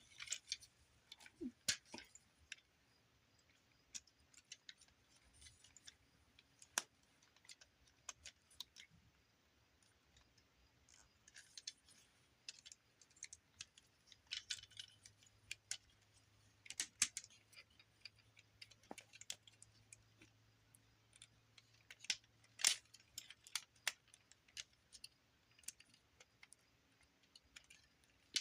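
Sparse, irregular small plastic clicks and light rattles as a Transformers action figure's parts are moved and snapped into place during transformation.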